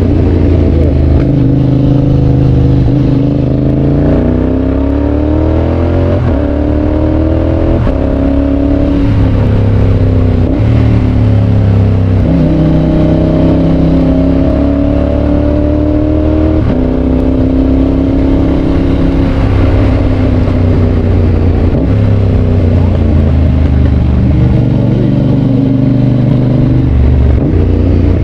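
Yamaha Tracer 7's 689 cc parallel-twin engine running through a GPR exhaust while riding. The pitch climbs under acceleration and steps abruptly at several gear changes, then eases and picks up again.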